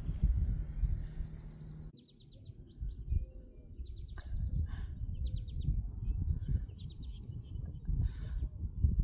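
Small songbirds singing several rapid trills of quickly repeated high notes, over a strong irregular low rumble. The background changes abruptly about two seconds in.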